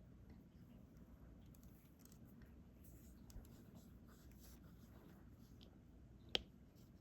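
Faint small ticks and taps of resin diamond-painting drills being picked up with a drill pen and pressed onto the canvas, with one sharper click about six seconds in.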